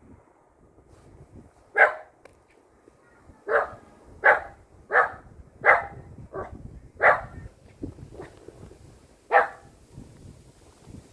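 Silver poodle barking: eight short barks, most about two-thirds of a second apart, with a longer pause before the last.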